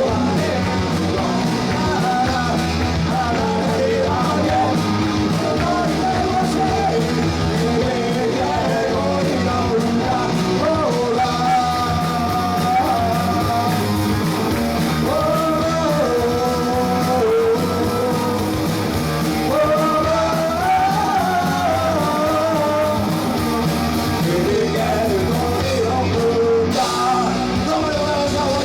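Rock band playing live, with a singer's wavering melody over the band.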